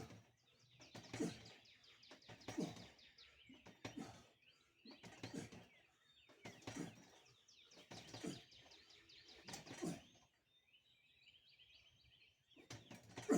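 A man's forceful breaths or grunts, one with each pull-up, about every second and a half, seven in a row, then stopping as the set ends. Birds chirp faintly near the end.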